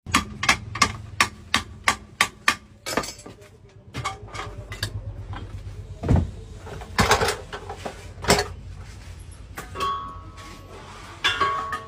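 Hammering: a quick, even run of about nine sharp blows, roughly three a second, then a pause and a few separate heavier knocks, with short ringing tones near the end.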